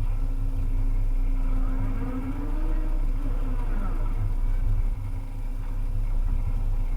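Volvo EC300E excavator's diesel engine running steadily, with a whine that rises and falls about halfway through.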